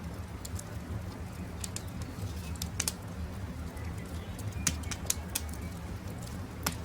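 Campfire crackling, with sharp irregular pops over a steady low rumble, the loudest pops near three seconds, five seconds and the end. Birds call in the background.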